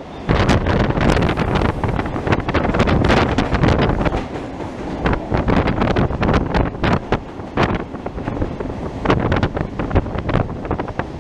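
EMU suburban train running through a tunnel, heard from aboard: a loud, dense rumble with irregular knocks, and wind buffeting the microphone.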